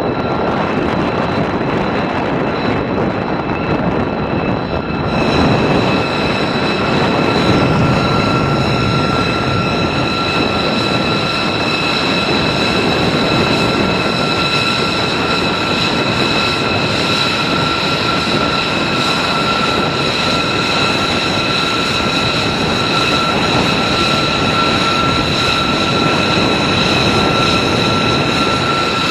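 B-2 Spirit stealth bomber's four General Electric F118 turbofan engines running: steady jet noise with a constant high turbine whine. About five seconds in, the hiss reaches higher and grows slightly louder.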